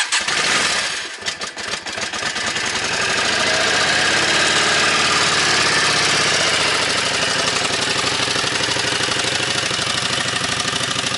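Motorcycle engine cold-started on the choke: it catches suddenly, runs unevenly for a couple of seconds, then settles into a steady, evenly pulsing idle, still on the choke as it begins to warm up.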